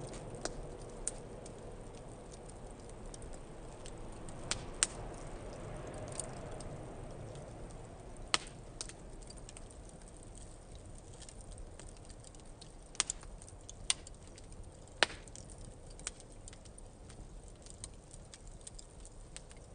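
Wood fire in a fire-pit stand crackling, with sharp, irregular pops over a low, fading rumble of flames.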